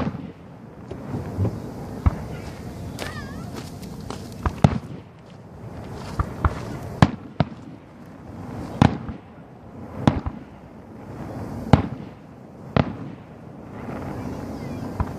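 Professional 1.3G aerial fireworks going off: a string of sharp booms and cracks at irregular intervals, a second or two apart.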